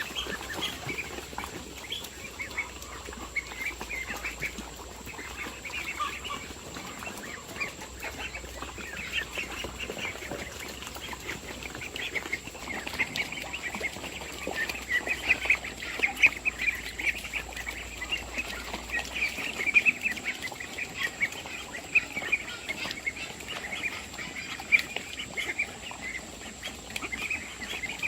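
A flock of farmyard poultry calling, many short overlapping calls with no let-up, busiest about halfway through.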